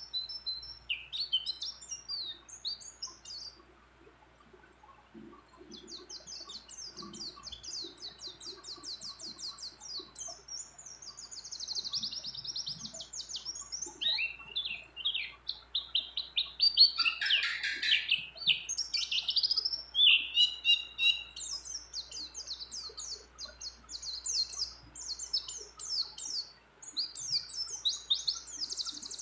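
White-eye (pleci) singing a long, fast, twittering song of high trills, with a short pause about four seconds in and a louder, lower phrase near the middle. The song strings together phrases copied from other birds.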